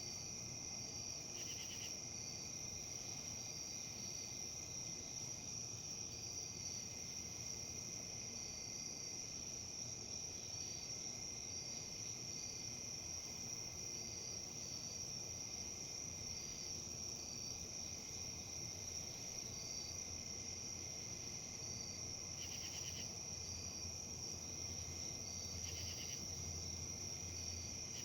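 Insects trilling, a steady high-pitched drone, with a second, softer chirp repeating about once a second and a few brief buzzy bursts. Beneath them runs a low, even rustle of wind in leaves.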